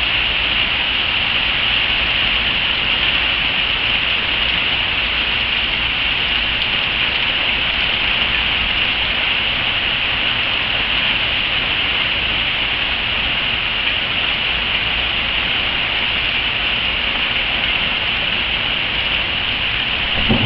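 Steady rain falling, an even hiss that holds level without let-up.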